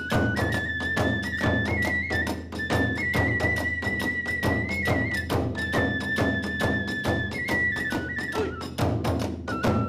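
Kagura hayashi: a bamboo transverse flute plays a high melody of held notes that step up and down, over rapid, even drum strokes of about five or six a second.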